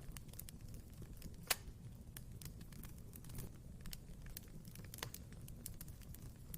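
Wood fire crackling in a fireplace: irregular small snaps and pops over a low, steady rumble, with one louder pop about a second and a half in.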